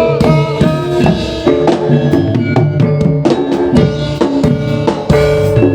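Instrumental music for a jaranan sentherewe performance: drums beat over a stepping melody of pitched notes, with no singing.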